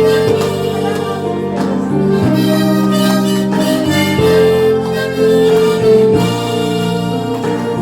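Harmonica ensemble playing a slow melody together in A#, with held notes over sustained chords, the notes changing about once a second.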